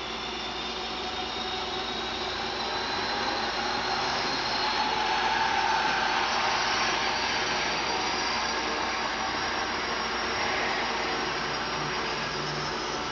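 Small electric motor and gearing of a Faller Car System model truck running, a steady whirring with a faint high whine that drifts slightly in pitch, growing a little louder midway and then easing off.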